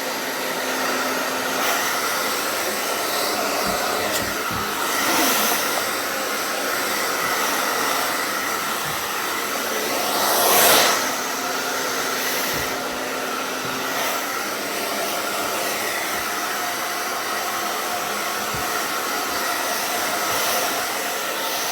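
Hair dryer running steadily with a blowing hiss. The noise swells louder for about a second roughly halfway through, and there are a few soft low knocks.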